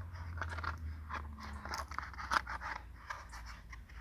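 Irregular light crunching and crackling of dry rubbish and gravel being disturbed, with a low rumble underneath that fades out in the first second and a half.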